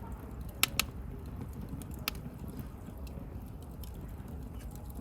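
Wood bonfire crackling: a few sharp pops, two close together just under a second in and another about two seconds in, over a steady low rumble of the burning fire.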